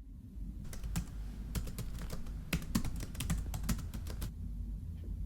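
A quick, irregular run of light clicks and taps, stopping about four seconds in, over a low steady hum.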